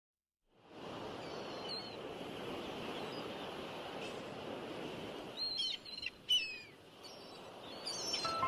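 Birds calling over a steady outdoor hiss, with a cluster of quick, falling chirps about five and a half to six and a half seconds in. The sound starts about half a second in.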